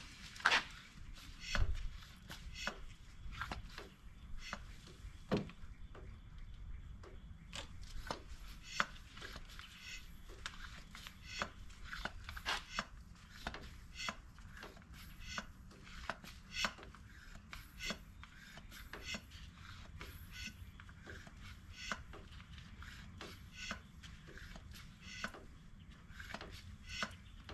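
Hand pump of a cooling-system pressure tester being worked stroke after stroke, about two clicking strokes a second, building pressure in the cooling system toward 15 psi for a leak test.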